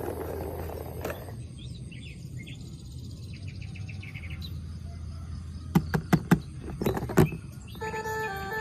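A handful of sharp clicks and knocks in quick succession, then a simple electronic tune starts near the end, of the kind a battery-powered musical toy vehicle plays.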